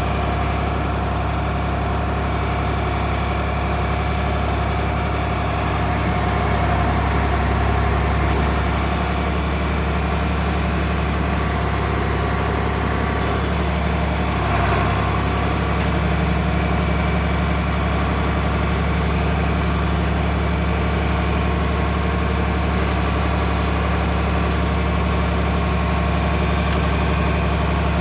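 John Deere tractor's diesel engine running steadily, its low note swelling slightly a few seconds in.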